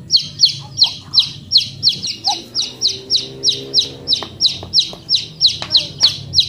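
A bird's high, sharp chirp repeated steadily about three to four times a second, each chirp a quick downward sweep. From about four seconds in come a few sharp taps of stone on stone.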